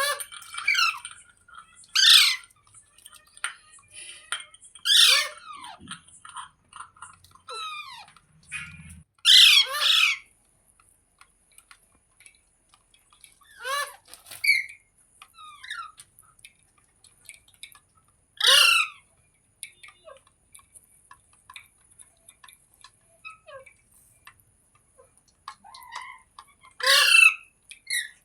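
Green ringneck parrot (rose-ringed parakeet) squawking: about seven loud, harsh screeches a few seconds apart, two of them back to back near the middle, with softer chirps and chatter in between.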